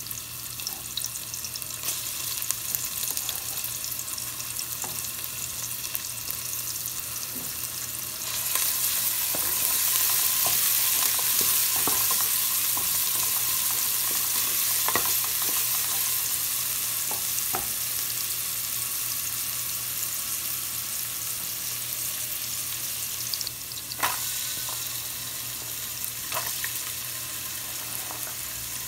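Chopped red onion and garlic sizzling in oil in a metal pot while a spatula stirs and scrapes the pot. The sizzle grows louder about eight seconds in, and there is a sharp knock near the end. A steady low hum runs underneath.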